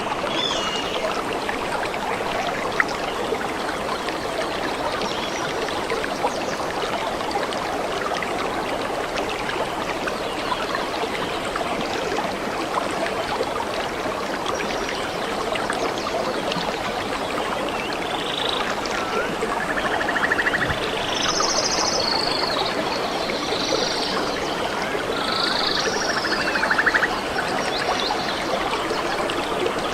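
Steady rushing of a flowing stream, with birds calling over it from a little past halfway, several short chirps and trills.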